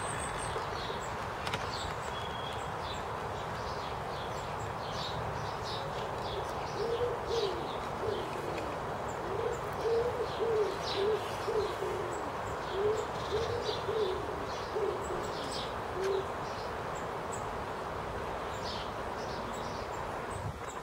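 A bird cooing: a run of short, low hooting notes repeated for about ten seconds, starting about a third of the way in. Small birds chirp faintly throughout over steady outdoor background noise.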